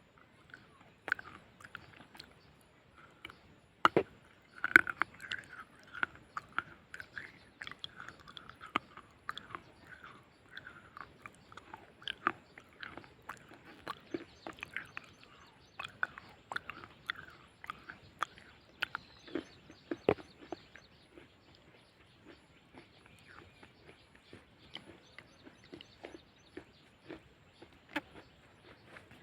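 A person biting and chewing hard, crunchy white earth, with irregular sharp crunches throughout, the loudest about four to five seconds in.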